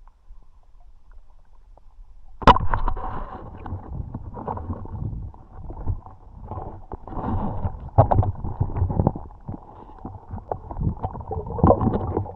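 Muffled water splashing and sloshing with irregular knocks, starting suddenly about two and a half seconds in after a quiet start.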